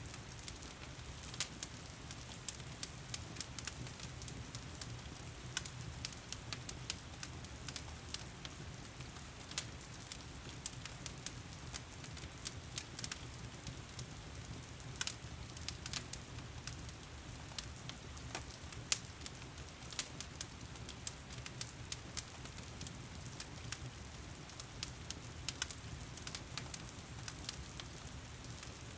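A fireplace fire crackling with irregular sharp pops and snaps over the steady hiss of heavy rain.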